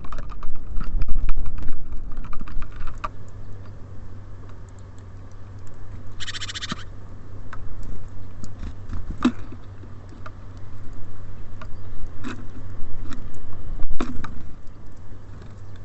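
Small birds at a feeder: scattered sharp taps and clicks of pecking and hopping on the feeder, with one short bird call about six seconds in, over a low steady hum.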